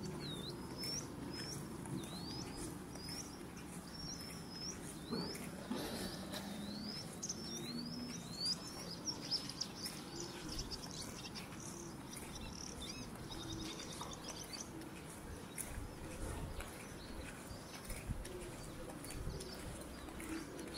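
Small birds chirping: a run of short, hooked, high chirps about two a second, giving way near the middle to a busier chatter of calls.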